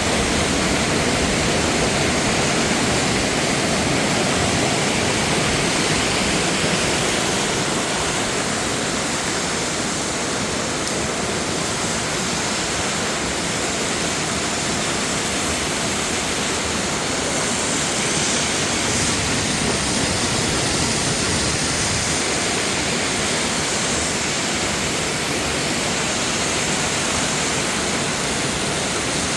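Waterfall and water rushing over rocks: a loud, steady rush without let-up.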